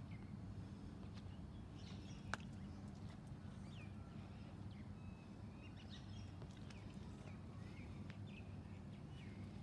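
Birds calling outdoors: scattered short, sharp chirps over a steady low rumble, with a single sharp click about two seconds in.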